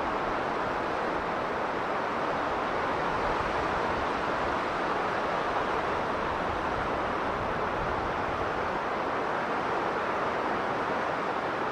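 Strong blizzard wind blowing as a steady, even rush with no gusts or breaks.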